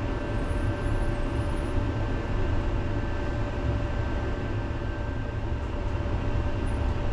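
Electric city tram running on its rails, heard from inside the car: a steady low rumble with a constant hum from the drive.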